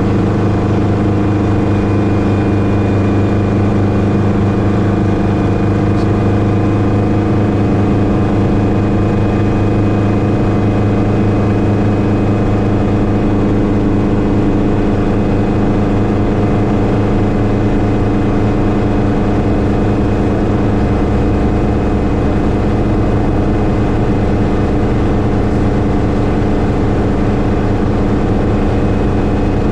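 Schweizer 300C (Hughes 269C) light helicopter, its four-cylinder Lycoming piston engine and rotor running steadily, with a thin high whine over it that fades after the middle.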